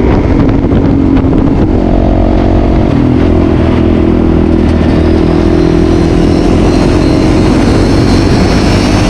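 Motorcycle engines running steadily while riding, a loud even engine note with no clear revving.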